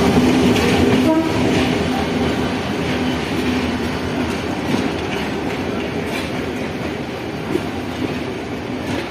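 A passenger train arriving: its horn sounds and breaks off about a second in, then the rumble of the train's wheels and running gear goes on and slowly fades.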